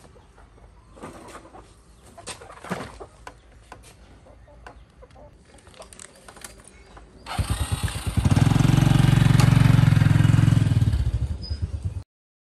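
Scattered faint clicks, then about seven seconds in an engine starts and runs loudly with a fast, even pulse, before the sound cuts off suddenly near the end.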